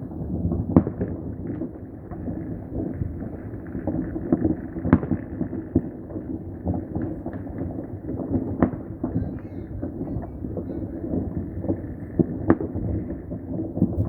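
Fireworks going off all around: a continuous din of many overlapping pops and bangs, with a few louder single bangs standing out.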